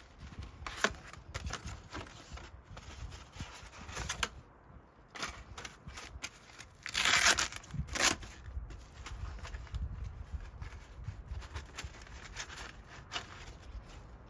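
Packaging being opened and handled: scattered rustling, crinkling and small clicks, with a louder burst of tearing or rustling about seven seconds in.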